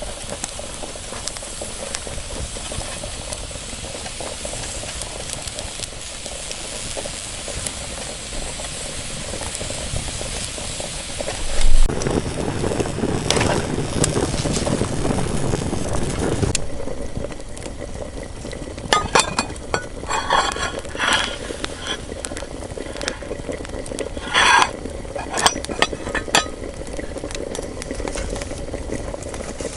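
Food sizzling in a pan over a campfire, with a louder stretch of hissing about twelve seconds in. After that come several short clinks and knocks of a utensil against the pan.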